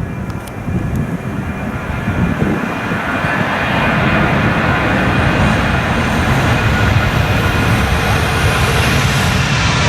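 Jet airliner's engines at take-off thrust on the departure runway, a heavy rumble that grows louder over the first few seconds and then holds as the aircraft passes close by.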